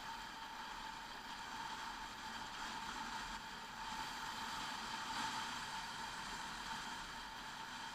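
Motorcycle riding at a steady speed: a constant rush of wind and road noise with a steady engine drone, unchanging throughout.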